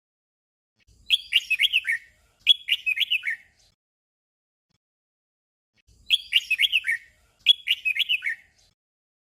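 Red-whiskered bulbul singing a short doubled song: two quick chirpy phrases back to back, the second ending on a falling note. The doubled song comes twice, about five seconds apart.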